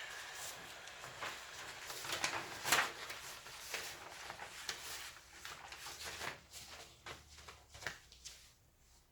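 Hand carving tool cutting and shaving wood in quick, irregular strokes, each a short scraping rasp. The cuts are densest about two to three seconds in and stop near the end.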